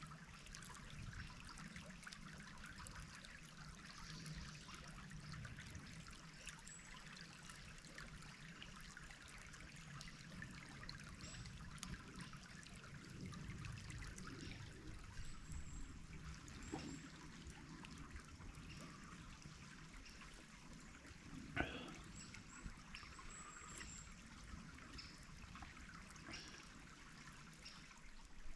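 Small stream trickling and burbling faintly over stones, a steady wash of water. A single short knock about three-quarters of the way through.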